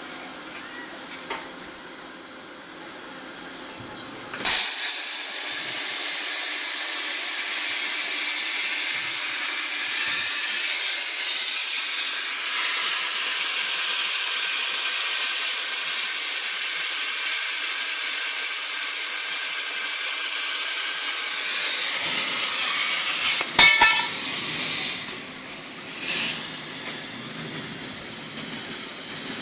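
Plasma cutting torch firing and cutting, a loud steady hiss of the arc and compressed air that starts abruptly a few seconds in and cuts off near the end, followed by a few sharp clicks.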